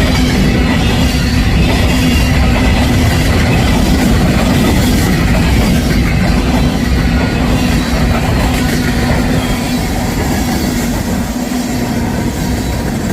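Covered hopper cars of a grain freight train rolling past at close range, their wheels clacking on the rails, with a steady ringing tone from the wheels. The noise eases slightly near the end.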